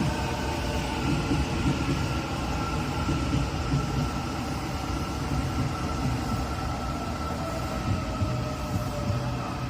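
A Taiwan Railways train running past, a steady rumble with a faint high whine over it.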